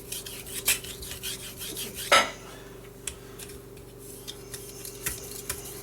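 Titanium knife blade stroked along a wet 8000-grit whetstone, giving light scrapes and clicks, with one louder knock about two seconds in. A steady low hum runs underneath.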